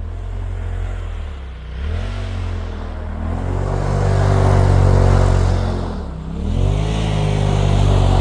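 Polaris RZR side-by-side's engine pulling under throttle, its pitch dropping as the throttle eases off and climbing again several times: near the start, about two seconds in and about six seconds in.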